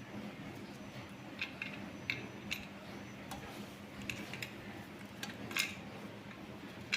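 Sogo SG-5603 56-inch industrial ceiling fan running with a steady low motor hum, over which come irregular light ticks and clicks, about ten of them.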